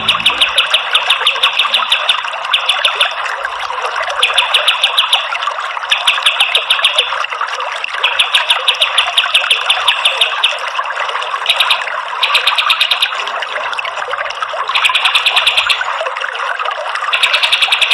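Kapas tembak, a triller bird, singing in rapid-fire trills that come in bursts of one to two seconds again and again, over a steady rush of running water.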